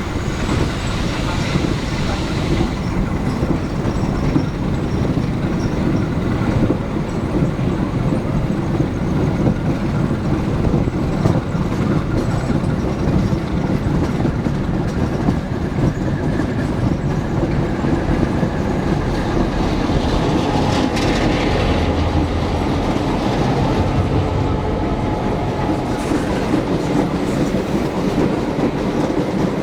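Passenger train running along the track: a steady rolling rumble with the clickety-clack of wheels over rail joints.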